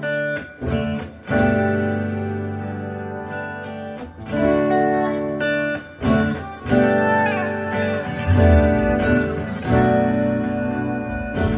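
Live guitar playing: chords strummed one after another, each left to ring for a second or two, with no singing.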